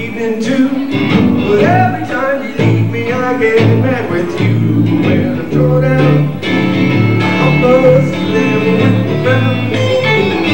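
Live blues band playing between sung lines, with guitar to the fore.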